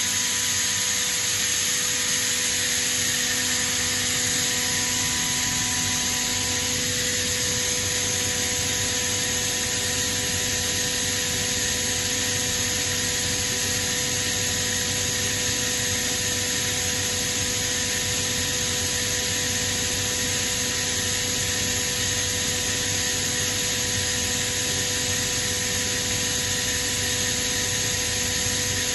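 Kaeser ASD37 oil-injected rotary screw air compressor running steadily: an even mechanical rush with several constant whining tones over it. One lower tone in the sound fades out about six seconds in.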